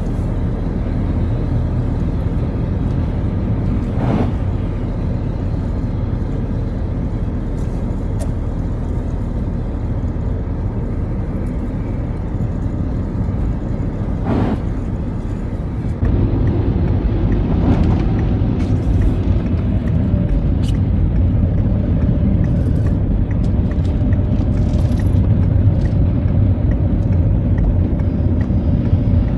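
Citroën Xsara on the move: steady engine and road rumble, with two sharp clicks. About halfway through it gets louder, and a faint whine rides on top.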